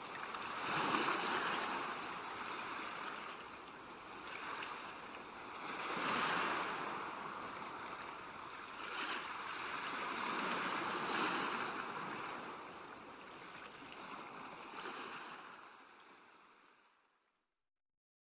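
Ocean surf: waves washing in and drawing back, swelling about every five seconds. Near the end the sound fades out to silence.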